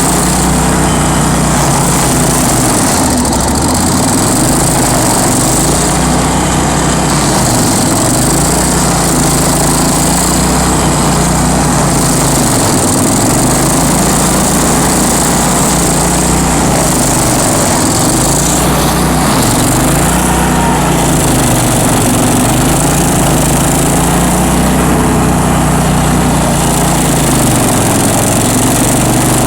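Bandit ZT1844 stump grinder running at high speed, loud and continuous. Its engine pitch sags and recovers about every three seconds, as it takes load from the cutting wheel and then comes off it.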